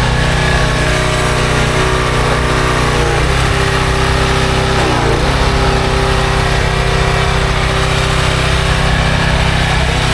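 An engine running steadily, its pitch dipping briefly and coming back up twice, about three and five seconds in.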